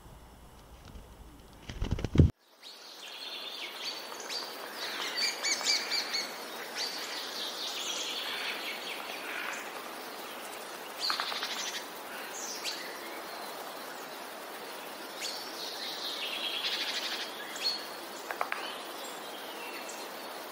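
A sharp knock about two seconds in, then songbirds chirping and singing: short high chirps and trills in clusters, over a steady faint hiss.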